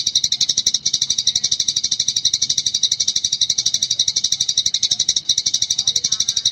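Eurasian tree sparrow chattering nonstop in a rapid, even run of high chirps, more than ten a second: the 'gecor' continuous chatter used as a training recording for caged songbirds.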